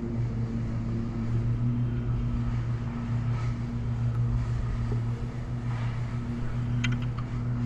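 A boat's motor running with a steady, even hum. A brief cluster of small clicks comes near the end.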